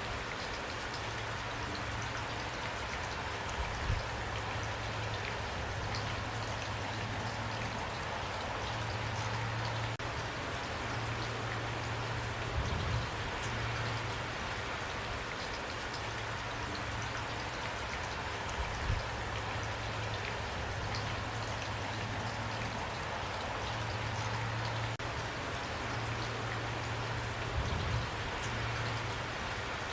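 Steady rain falling, an even patter of raindrops, with a low hum that comes and goes and a few brief soft thuds several seconds apart.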